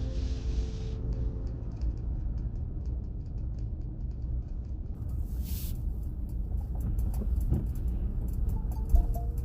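Steady low rumble of a car driving, heard from inside, with many light clicks. There is a brief hiss at the start and another about five seconds in.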